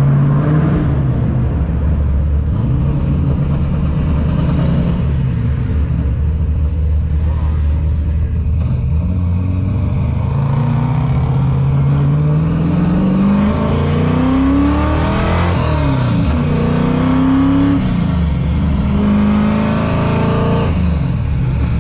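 Built 347 stroker V8 of a 1994 Mustang GT, heard from inside the cabin: running steadily at low revs, then revving up in three rising pulls from about halfway, with the pitch dropping between them and falling away near the end.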